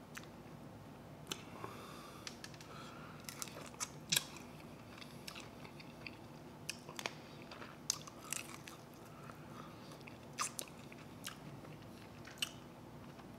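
A man chewing and biting chicken wings off the bone, with irregular small crunches and clicks.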